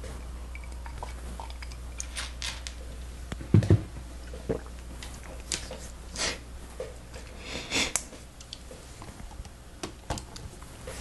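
Lego Technic plastic pieces being handled and fitted together: scattered small clicks and rustles, with a low thump about three and a half seconds in.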